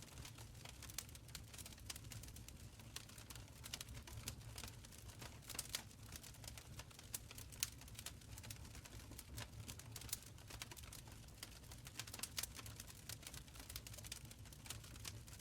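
Wood fire crackling in a stone fireplace: many small, irregular pops and snaps over a faint low rumble of burning.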